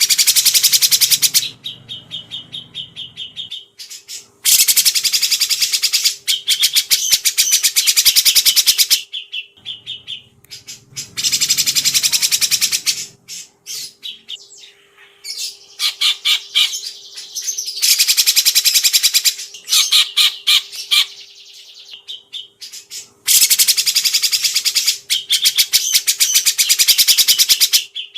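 Songbird singing five loud phrases of very rapid, high trilled notes, each a few seconds long with short pauses between. A faint steady hum runs underneath.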